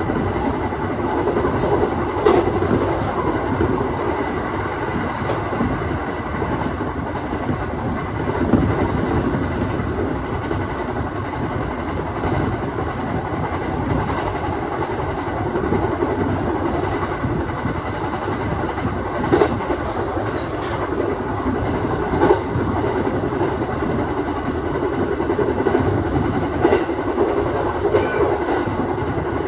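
Aoimori Railway 701 series electric train running along the line, heard from on board: a steady rumble of wheels on rail with a few sharp clacks from rail joints.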